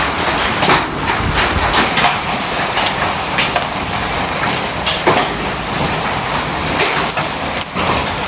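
Hailstones and heavy rain pelting hard surfaces: a loud, steady hiss of rain with irregular sharp knocks from individual hailstones striking.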